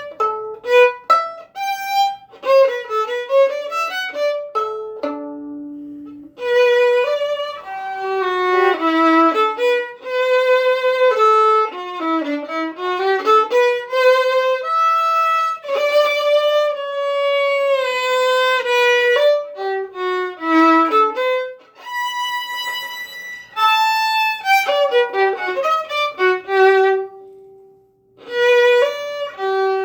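Solo violin playing a melody of quick short notes and longer held notes, with a brief pause near the end.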